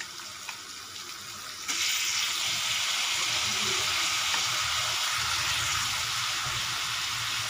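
Chopped carrot, beans and onion sizzling in hot oil in a frying pan. About two seconds in, the sizzle jumps suddenly to a louder, steady hiss as shredded cabbage goes into the pan.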